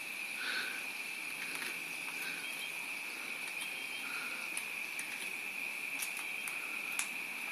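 Steady high-pitched insect chorus, with a few faint short bird chirps and scattered soft ticks.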